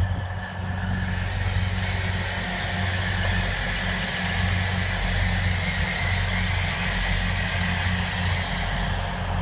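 Class 180 diesel multiple unit passing close by: a steady low drone from its underfloor diesel engines over a continuous rush of wheels on the rails.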